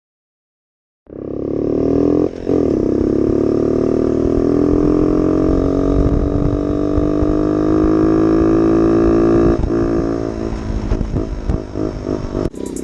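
Yamaha TTR90's small single-cylinder four-stroke engine running while the bike is ridden. It starts about a second in, and its pitch climbs slowly as it gains speed, with a brief drop about two seconds in. It cuts off suddenly near the end.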